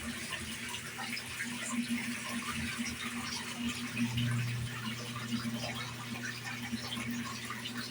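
Portable washing machine on its spin-dry cycle: a steady motor hum over the sound of spun-out water running and splashing into the sink. A deeper hum joins about four seconds in.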